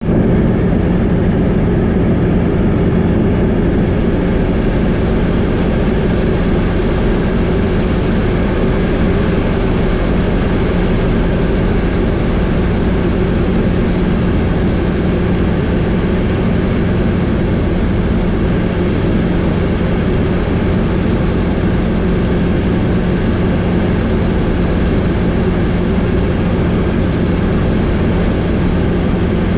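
Helicopter in flight: steady rotor and engine noise with a strong low hum. About four seconds in, a higher hiss joins it and stays.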